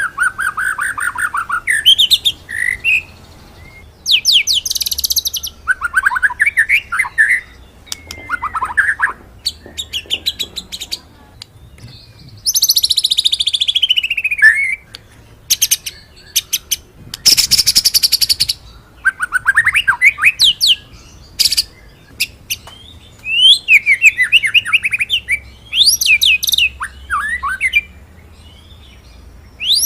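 White-rumped shama (murai batu) singing its varied song of rolling trills and sharp 'shooting' notes: bursts of whistles and fast trills, with a long falling sweep about halfway through, separated by short pauses.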